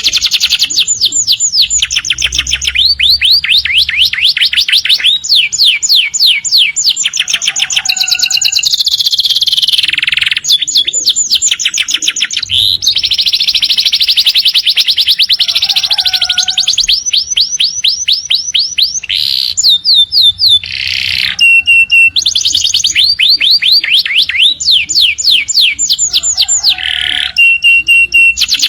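Domestic canary singing a long, loud, unbroken song of fast trills: rapid runs of repeated notes sweeping down in pitch, broken by a few short held whistled notes in the last third.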